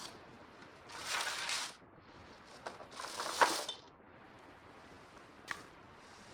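Wood campfire burning: two short noisy bursts and a few sharp pops, the loudest pop about three and a half seconds in and another near the end.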